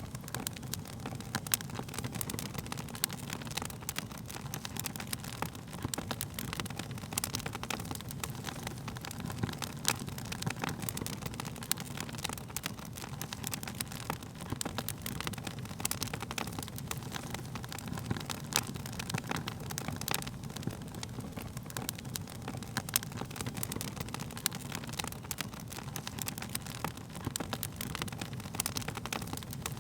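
Wood fire crackling: frequent irregular sharp snaps and pops over a steady low rumble of burning.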